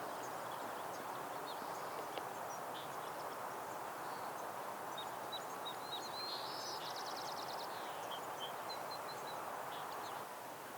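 Small songbirds giving scattered short high chirps, with one quick trill of rapidly repeated notes about two thirds of the way through, over a steady rushing background noise.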